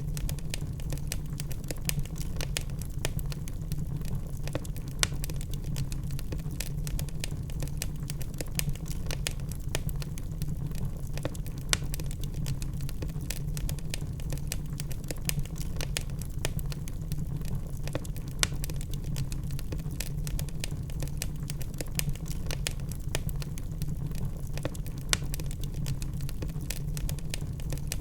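Log fire crackling and popping, with irregular sharp snaps over a steady low rumble of the burning.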